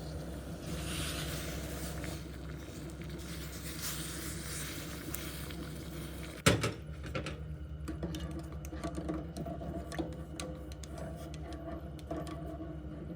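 A hiss over a steady low hum, then one sharp knock about six and a half seconds in, after which the hiss is gone and light clicks and taps follow.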